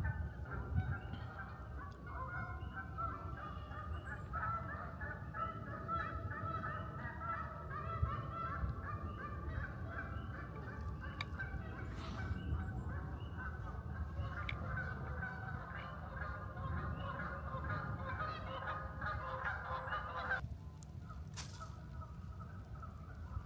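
A flock of geese honking, many short calls overlapping in a constant chorus that cuts off abruptly near the end, over a low rumble.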